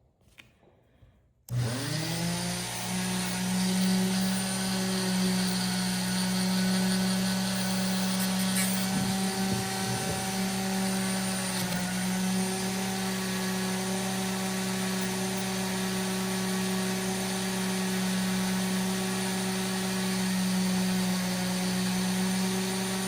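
A small electric rotary power tool switches on about a second and a half in, spins up briefly and then runs at a steady speed, polishing spots off a pocket-knife blade.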